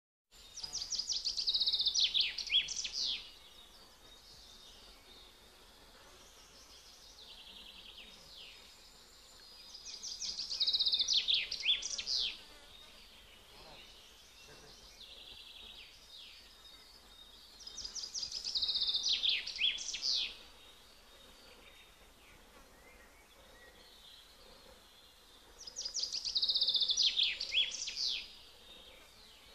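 A songbird singing the same short phrase four times, about eight seconds apart: a quick run of high notes ending in fast downward slurs. A faint steady hiss of outdoor ambience sits under it, with softer song from farther off in the gaps.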